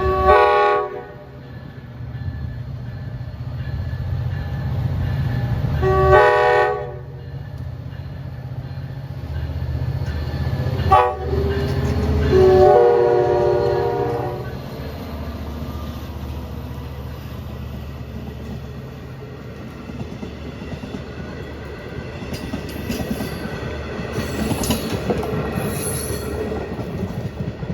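Long Island Rail Road DE30AC diesel locomotive's multi-tone air horn sounding four blasts, two long, a short, then a longer one, the pattern sounded for a grade crossing, over the steady low hum of the diesel engine. Near the end the clatter of wheels on rail and a high squeal come in as the train passes.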